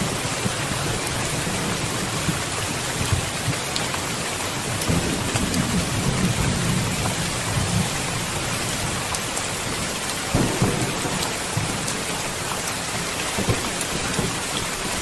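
Steady rain falling, with low rolling thunder rumbles: a long swell from about 5 to 8 s in and a shorter, sharper one at about 10 s.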